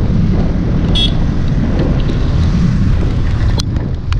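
Yamaha MT-15's single-cylinder engine running while riding, with wind buffeting the microphone as a steady low rumble. A brief high beep comes about a second in, and a few sharp clicks near the end.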